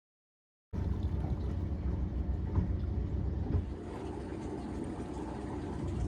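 Steady boat engine noise mixed with wind and water, a low rumble starting abruptly under a second in.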